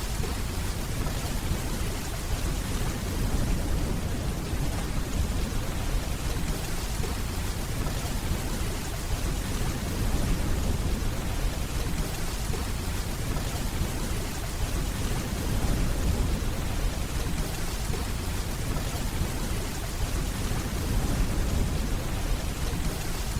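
Steady rainfall with a low, rolling rumble of distant thunder underneath.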